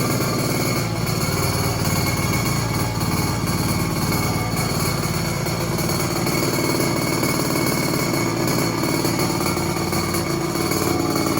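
X1 pocket bike's small two-stroke engine running steadily, very loud through its straight pipe and small muffler.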